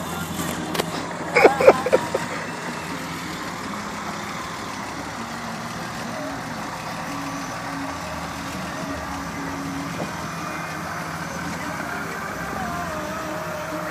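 BMW inline-six engine idling steadily, with a brief loud burst of voices about a second and a half in.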